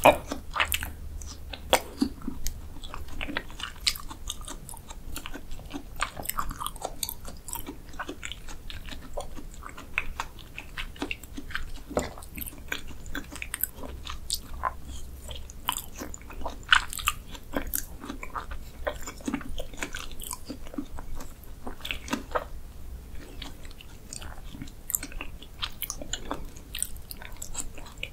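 Close-miked wet chewing and slurping of soft, slippery raw beef spinal cord strands, with many sharp, irregular mouth clicks and squelches.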